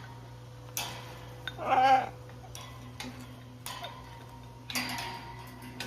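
Scattered clicks, knocks and rattles of a cockatoo playing with a toy, with one short wavering parrot call about two seconds in, the loudest sound, and a longer rattle near the end.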